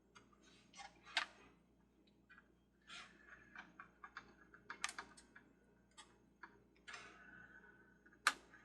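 Scattered light clicks, taps and short scrapes of small plastic parts being handled and fitted together, irregular and faint.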